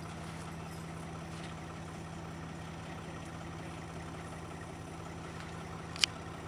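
Tractor engine running at a steady speed, an even hum with no change in pitch. A single sharp click sounds near the end.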